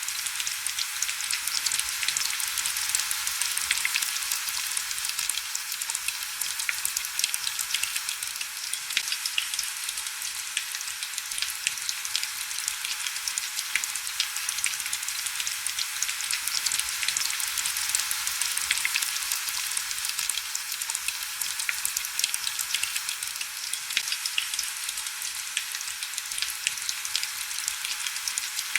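Heavy rain falling steadily against window glass: an even hiss full of small, sharp drop ticks.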